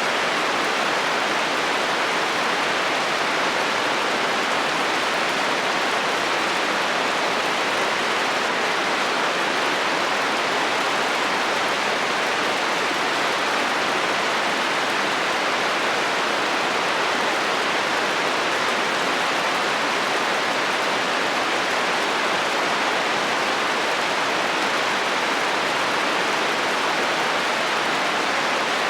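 Heavy rain falling steadily on a metal roof, an even, unbroken hiss with no thunder.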